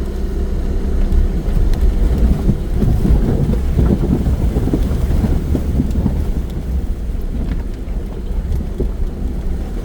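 Off-road vehicle engine running with a low, steady drone, overlaid by a dense crackling rumble that swells about two seconds in and eases off after about seven seconds.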